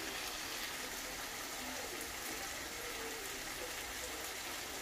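Steady, even sizzle of sambal (minced garlic and chilli paste) frying in oil in a wok.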